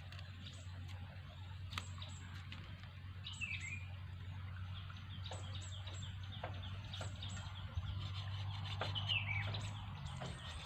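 A bird calls twice, each time a short falling chirp phrase, about three seconds in and again near the end. Underneath are a steady low hum and scattered light clicks.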